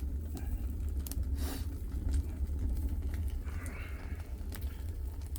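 Wood fire burning in a homemade wood-burning stove: scattered sharp crackles and pops over a steady low rumble.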